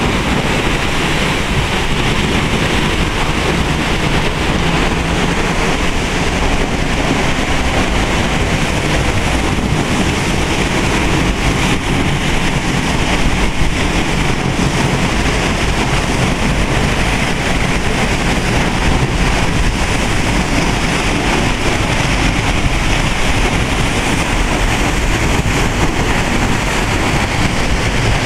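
Waterfall in full rainy-season flow: a loud, steady rush of falling water.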